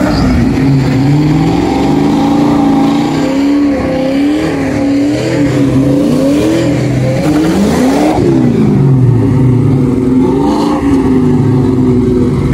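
Engines of two Ford Mustangs idling and revving, their pitch rising and falling over and over, with one sharp rev up and down about eight seconds in. One car's rear tyre is spinning in a smoky burnout.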